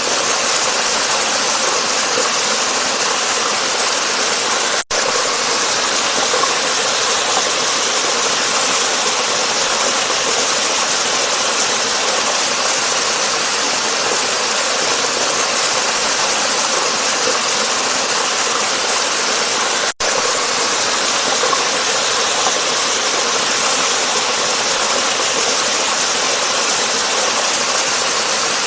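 Waterfall rushing steadily, a dense even hiss strongest in the upper range. It cuts out for an instant twice, about 5 seconds in and again about 20 seconds in.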